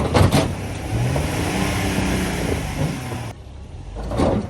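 Off-road 4x4's engine working under load as it crawls over rock, with its underbody hitting and scraping the rock: knocks near the start, a loud grinding stretch that stops abruptly, and another knock near the end.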